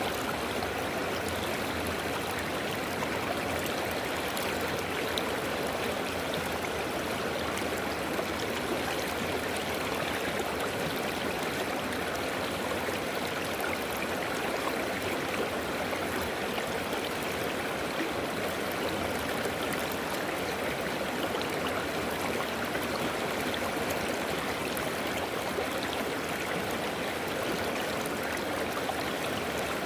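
River water flowing over rocks: a steady, even rush with gurgling, unchanging throughout.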